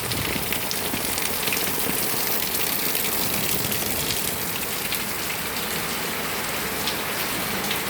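Heavy rain pouring down steadily, a dense even hiss with scattered close drop hits, as water runs off the saturated ground.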